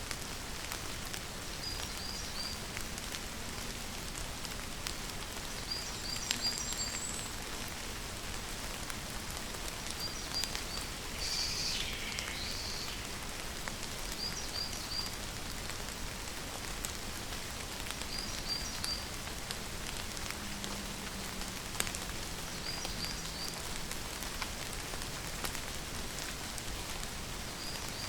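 Steady rain falling, with individual drops ticking on surfaces. A bird's short three-note chirp repeats about every four seconds over it, and one longer falling call comes near the middle.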